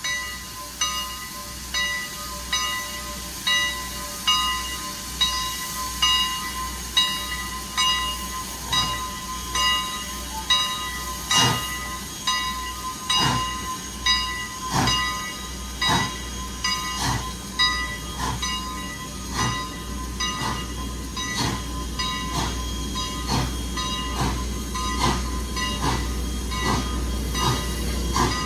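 A steam locomotive's bell ringing steadily at an even beat. From about a third of the way in, the engine's exhaust chuffs start and quicken as the train gets under way and pulls away.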